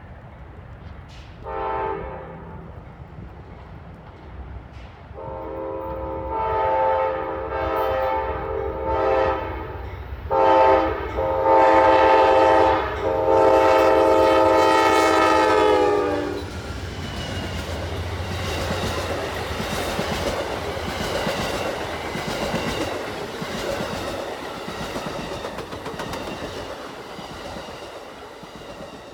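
Diesel freight locomotive's multi-chime air horn: a short blast, then long blasts that are the loudest part. The horn stops about halfway through and is followed by the train rolling past, its wheels clattering on the rail joints under the engine's rumble, fading near the end.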